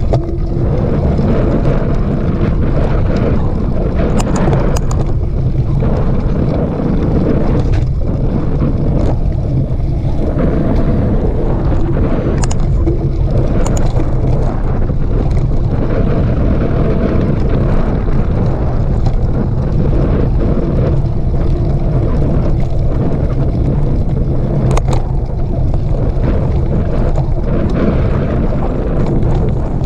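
Steady wind rumble on the microphone of a camera travelling on a mountain bike along a trail, with a few sharp clicks and rattles from the bike over the ground.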